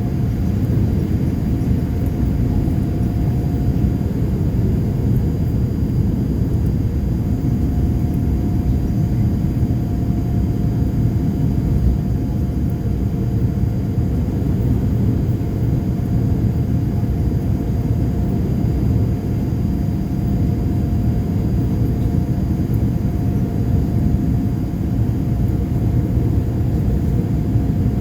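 Steady low rumble of a Boeing 787-8's engines and airflow heard from inside the passenger cabin, with a faint steady whine above it.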